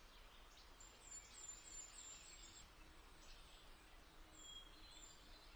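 Near silence with faint birdsong: a quick run of short, high chirps in the first half, and a few more near the end.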